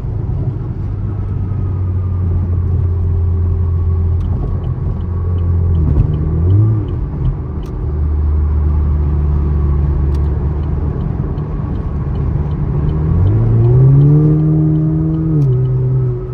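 Chevrolet Camaro's engine accelerating on the highway, its pitch dropping as it shifts up a gear about six seconds in. Near the end it revs up steeply and then drops again at the next shift.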